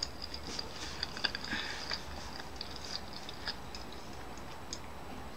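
Close-miked chewing: small wet mouth clicks and crackles as a mouthful of food is chewed.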